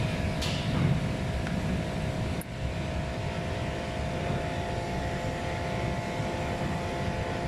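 Steady mechanical hum with a constant drone, like a running engine or machine, with a short sharp click about half a second in and a brief drop in level near 2.5 seconds.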